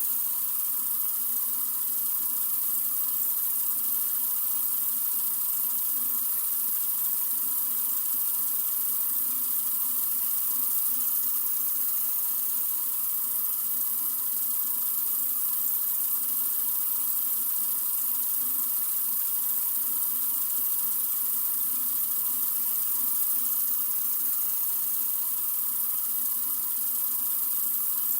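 Water running steadily from a sink faucet, an even hiss without change.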